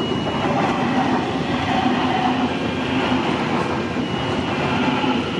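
NSW Trains Mariyung (D-set) electric multiple unit passing close by: a steady, loud rumble of wheels on rail with faint steady tones running through it.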